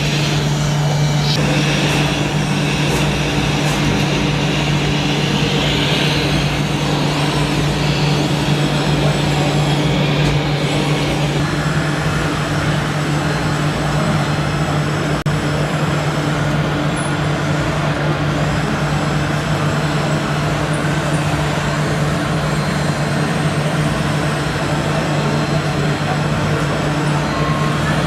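A motor running steadily, with a constant low hum under a noisy mechanical wash that shifts about eleven seconds in.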